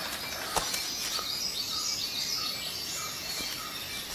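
Forest ambience: a bird's warbling run of high notes for about two seconds, over a short chirp repeating steadily about every two-thirds of a second. A sharp click about half a second in.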